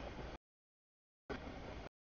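A freight train of tank cars rolling past a grade crossing, as a steady noise that cuts in and out: two short stretches of about half a second each with dead silence between, the audio dropping out.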